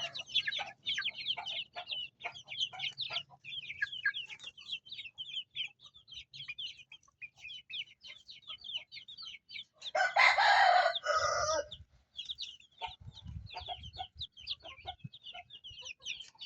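Chicks peeping continuously in rapid, high-pitched chirps, with a rooster crowing once, loudly, about ten seconds in.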